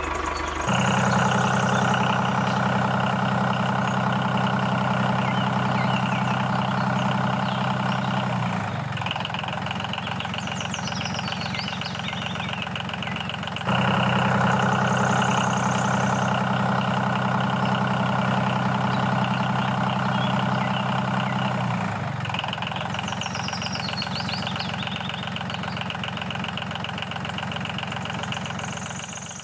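Miniature tractor's diesel engine running steadily as it pulls a loaded trailer. The tone and loudness shift down about 8 s and 22 s in and come back up about 14 s in.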